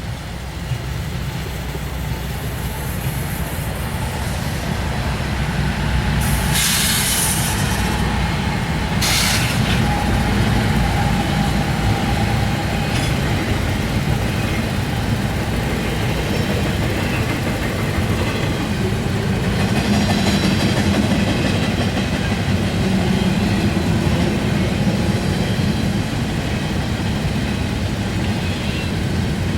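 Norfolk Southern intermodal freight train passing, its steady low rumble building over the first few seconds and then holding. Two brief high-pitched squeals come about seven and nine seconds in.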